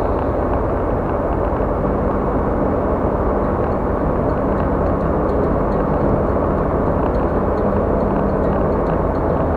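Steady road noise from a car travelling on a highway, heard from inside: a constant drone of tyres and engine.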